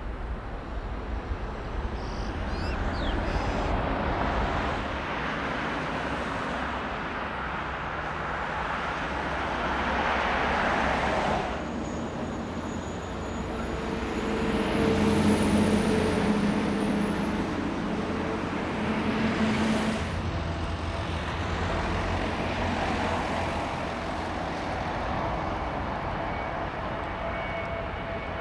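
Jet airliner engines at an airport, a steady noise that swells and fades several times, with a faint high whine and a low hum in the middle stretch.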